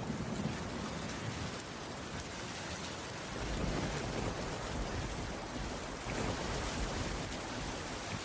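Steady rain falling on a wooden cabin roof, with a deep low rumble of distant thunder that fades and then swells again from about halfway through.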